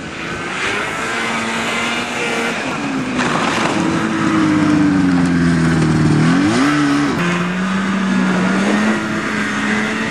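Off-road vehicle engine running under load, its pitch sagging, then rising sharply in a quick rev about six seconds in before settling to a steady drone.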